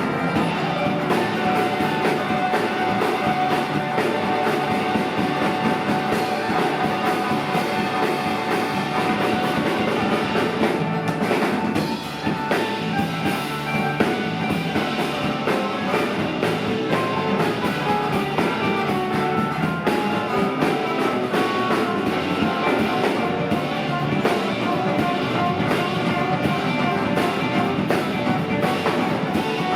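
Live rock band playing an instrumental passage: electric guitars over a drum kit and bass, with no singing.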